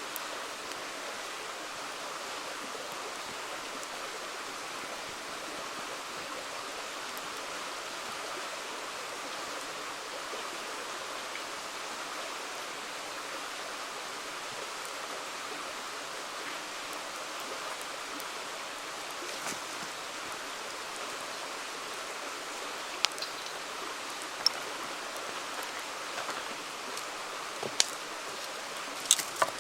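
River water flowing steadily. In the last several seconds a wood campfire gives a few sharp pops.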